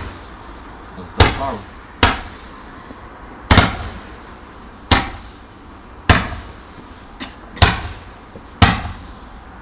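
A garden firework firing a series of seven sharp bangs at irregular intervals of about one to one and a half seconds, each with a short crackling tail.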